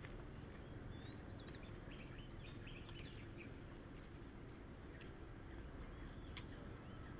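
Faint morning nature ambience: small birds chirping in quick short runs, a cluster about a second in and another near the end, over a steady low background hum of outdoor noise.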